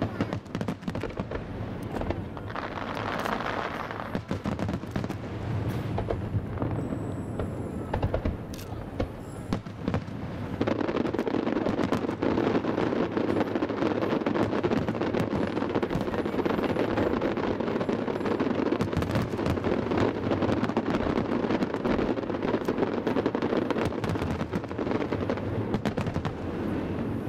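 Fireworks display: a dense run of bangs and crackling, growing thicker and louder about ten seconds in and staying that way.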